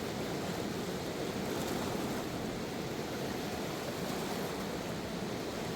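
Steady rushing of a river swollen by flood water, an even, unbroken wash of sound.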